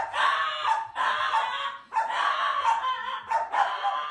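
A dog vocalizing over and over in a string of short, high-pitched yips and whines.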